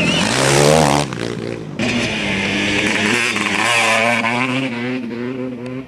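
Off-road racing motorcycle engines revving as bikes go by, their pitch rising and falling, with abrupt breaks in the sound about a second in and again near two seconds.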